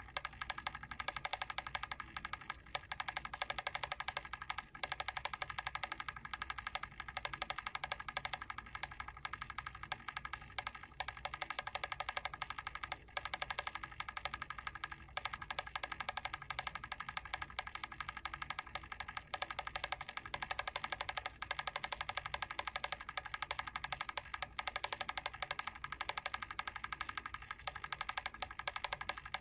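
Mechanical timer switch ticking in a rapid, even run of small clicks that never pauses, as its clockwork timing mechanism runs.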